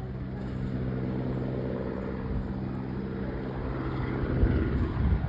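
Helicopter flying overhead: a steady drone from its rotor and engine that gets louder about four seconds in.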